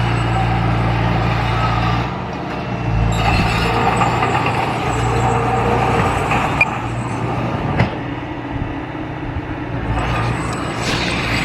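Large diesel engine of heavy construction equipment running steadily under load, easing off briefly about two seconds in and again near the end, with two sharp metallic knocks in between.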